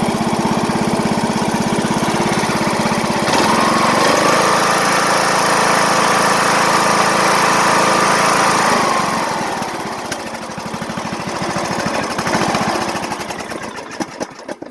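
Briggs & Stratton 15.5 HP single-cylinder engine running. It is throttled up about three seconds in, held at speed with a steady whine, then brought back down. Near the end it is shut off, its firing slowing to a stop. It runs smoothly, without surging.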